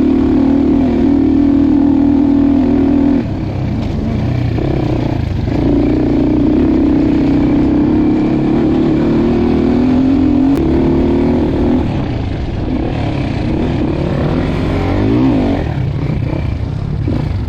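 Dirt bike engine running under throttle while riding an enduro trail. The note holds steady, then backs off briefly about three seconds in and again near the twelve-second mark, and its pitch rises and falls near the end.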